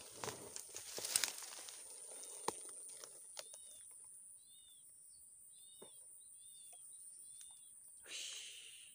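Rustling and sharp clicks as the fish is handled in the grass during the first few seconds. Then a bird repeats a short arched chirp about once a second, over a steady high-pitched drone, with a brief rustle near the end.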